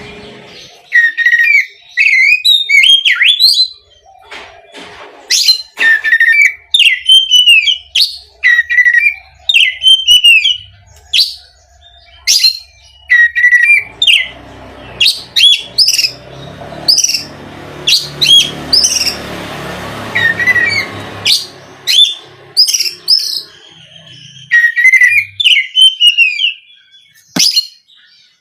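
Oriental magpie-robin (kacer) singing in loud, rapid bursts of varied whistles and chattering phrases, with short pauses between them. A rushing, hiss-like background noise rises about midway and fades out again.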